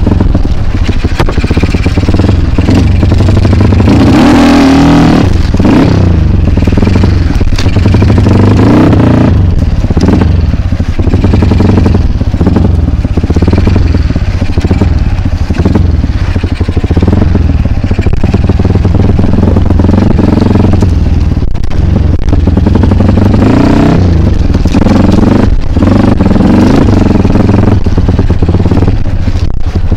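Kawasaki KLX trail bike's single-cylinder engine running loud under throttle, revving up and falling back several times, with some clattering.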